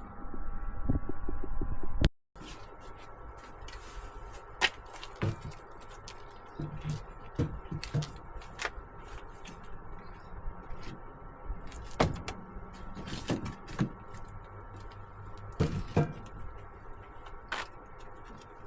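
Split firewood logs being handled and stacked, with sharp wooden knocks and clunks every second or two. It opens with about two seconds of loud low rumble that cuts off suddenly.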